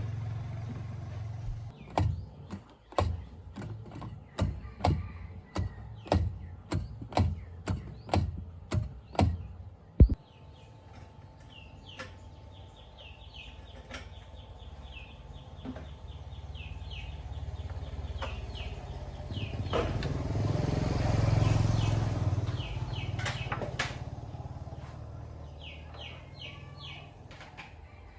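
About a dozen sharp knocks, speeding up to about two a second over a steady low hum and ending in one louder bang. Then birds chirp while a motor's hum swells and fades.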